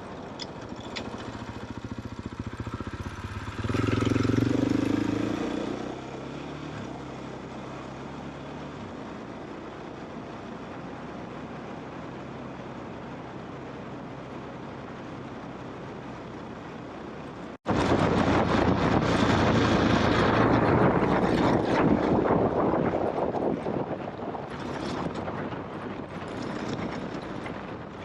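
KTM trail motorcycle engine running steadily, swelling louder briefly about four seconds in. After a sudden cut, the engine comes back much louder with a rushing noise as the bike rides on.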